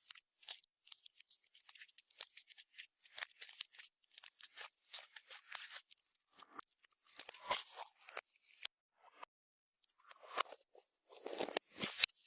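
Hands kneading and stretching clear slime: a dense run of sticky clicks, pops and crackles, pausing briefly a few times.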